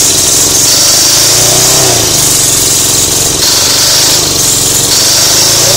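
Lawn mower's small petrol engine running loudly and steadily, its speed dipping and picking back up a few times.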